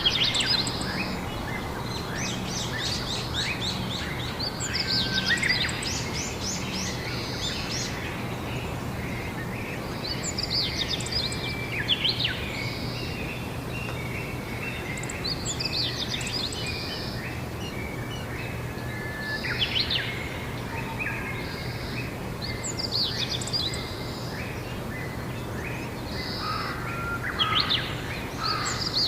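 Songbirds singing outdoors: short phrases of rapid high chirps and trills recurring every four to five seconds, over steady background noise with a faint low hum.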